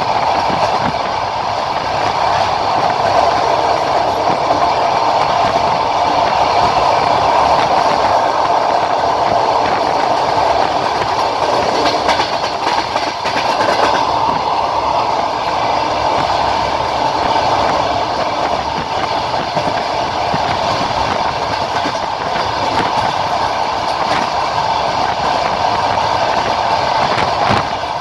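Passenger train carriage running at speed: a steady rolling rumble with the clickety-clack of its wheels over the rail joints.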